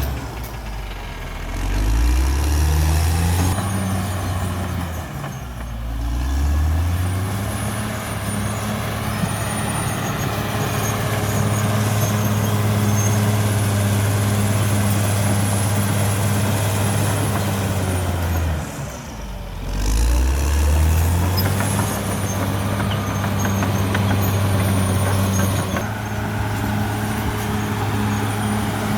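CAT D6R XL bulldozer's diesel engine running hard and steady. Its pitch sags and climbs back three times, about a second in, around six seconds, and near nineteen seconds.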